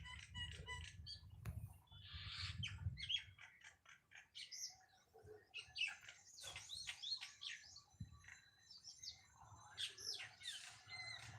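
Several small birds chirping, a busy run of short, quick high chirps and twitters that overlap one another.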